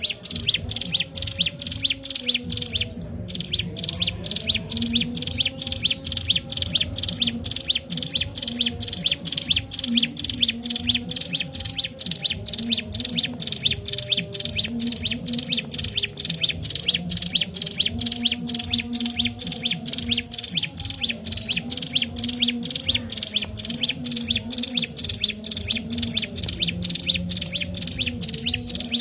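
A ciblek gunung (mountain prinia) calling nonstop in a fast, even run of sharp chirps, about three a second, with no pauses.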